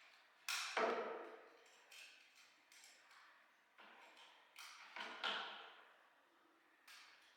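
Irregular knocks and clinks of hard objects being handled during repair work, about nine in all, some ringing briefly. The loudest come about half a second in and around five seconds in.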